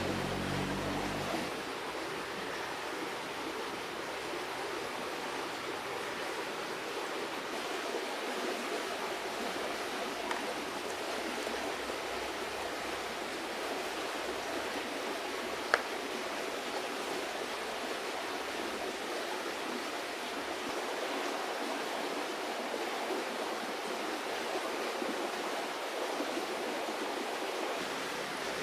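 River water flowing steadily. A low hum stops about a second and a half in, and there is one sharp click about halfway through.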